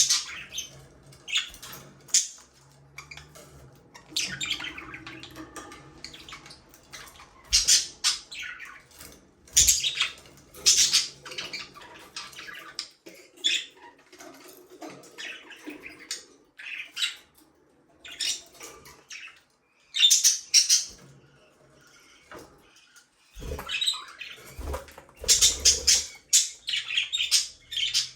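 Budgerigars chirping and squawking in irregular bursts of chatter with short pauses between. A few dull knocks come near the end.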